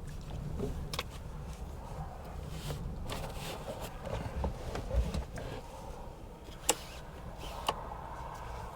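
Gusty wind buffeting, heard as a steady low rumble, with a few separate sharp clicks and knocks, one about a second in and two near the end.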